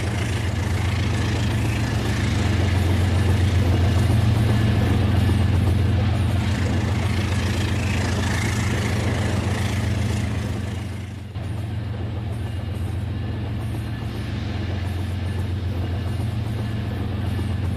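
Battery-powered toy train running on its track: a steady motor hum with a busy clatter above it, dipping briefly about eleven seconds in.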